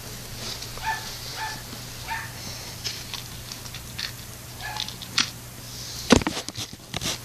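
A pet animal giving a handful of short, squeaky calls, spaced a second or so apart, followed by a quick cluster of knocks and clatter near the end.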